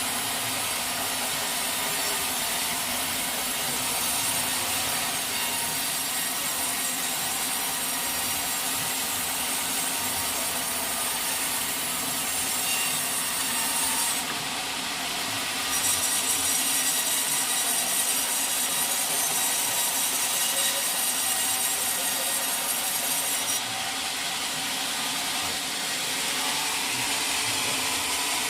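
Sawmill saw cutting through a teak log, a steady continuous sawing sound. It dips briefly about halfway, then runs louder and shriller for several seconds before easing back.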